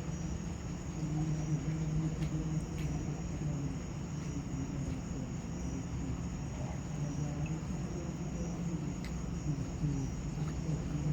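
Crickets chirping steadily in a high, pulsing chorus over a constant low hum.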